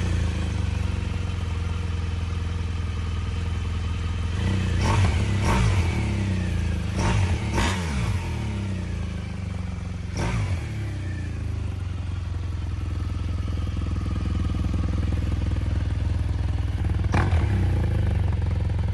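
BMW R1200GS flat-twin boxer engine running through a newly fitted LeoVince aftermarket exhaust, just after its first start. It idles steadily, with a few quick throttle blips about a quarter of the way in, again near the middle, and once more near the end.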